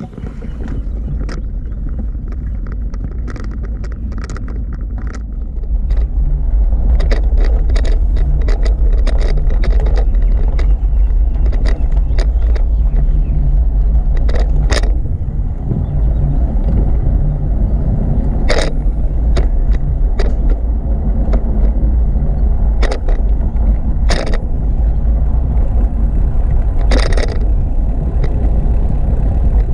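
Wind rumbling on the microphone while riding a bicycle, with frequent sharp rattles and clicks from the bike. It gets louder about six seconds in.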